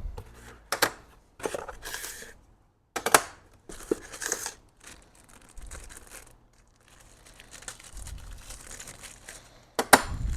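Packaging of a transfer-case manual-shift conversion kit being opened, with irregular crinkling and tearing. A few sharp clicks sound in between, the loudest near the end.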